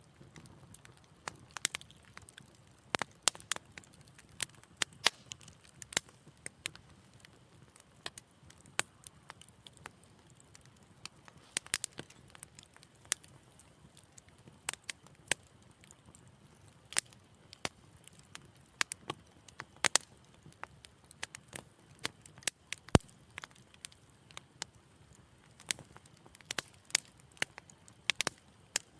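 Wood fire in a fireplace crackling, with frequent irregular sharp pops over a soft low rumble of flame. One especially sharp pop comes about three quarters of the way in.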